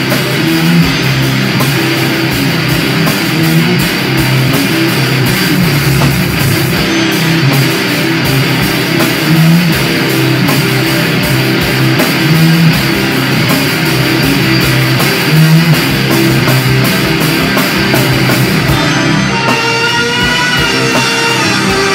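Distorted electric guitar and drum kit playing heavy rock at full volume. About nineteen seconds in the drums drop back and the guitar holds sustained, wavering notes.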